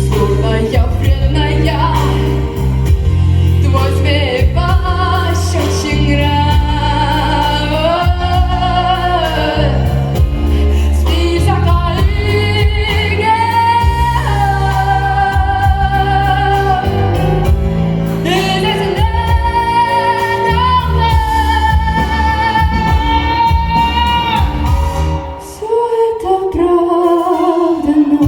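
Female vocalist singing a pop song over a backing track with bass and drums, holding long notes with vibrato. Near the end the accompaniment drops away briefly while the voice glides downward.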